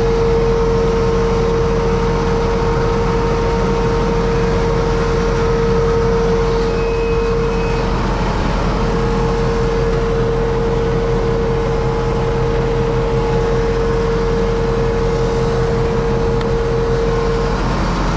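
Universal U650 tractor's four-cylinder diesel engine running steadily, with a steady high whine over it that drops out briefly about halfway through and again near the end.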